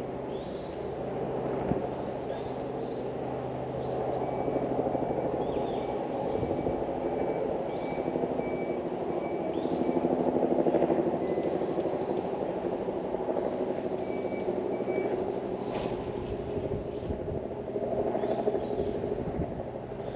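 Outdoor ambience: a steady low rumble, with short high bird chirps scattered through it.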